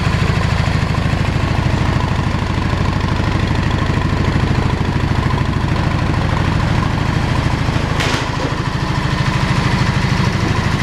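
2008 Yamaha XV650 V-Star V-twin engine idling steadily, sounding good apart from a carburetor that is a little sticky. A brief click comes about eight seconds in.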